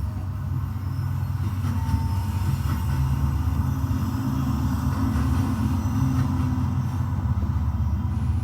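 HO scale model of a BNSF GP35 diesel locomotive running along its track, a steady low rumble.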